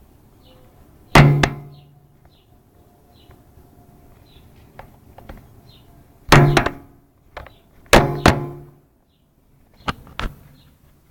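A series of loud knocks, each ringing briefly: one about a second in, two close together around six seconds, two more around eight seconds, and two smaller ones near the end. Faint short high chirps repeat steadily underneath.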